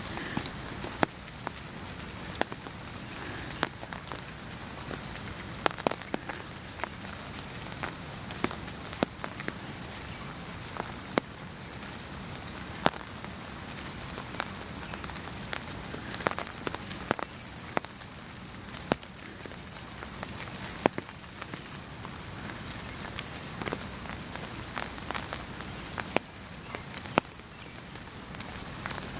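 Steady rain falling, with many large drops tapping sharply on a nearby surface at irregular moments.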